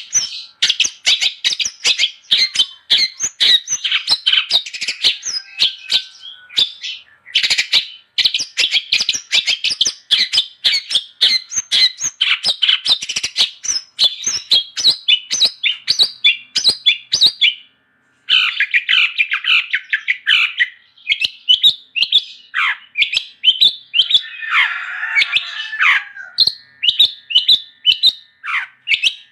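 Long-tailed shrike (cendet) singing actively: a fast, unbroken chatter of varied high notes and clicks, pausing briefly twice, with a harsh rasping call near the end.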